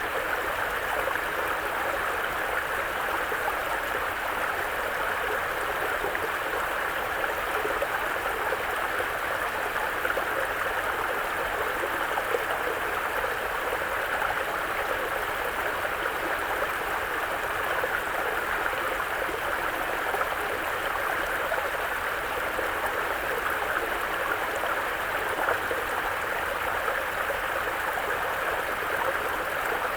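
Mountain brook flowing steadily over rocks, an even rush and babble of water.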